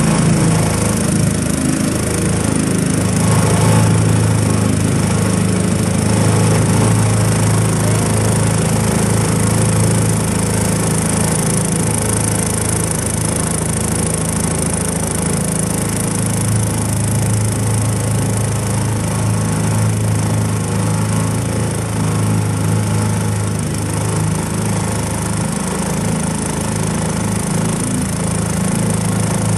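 Motorboat engine running steadily under way, with the rush of wind and water over the hull.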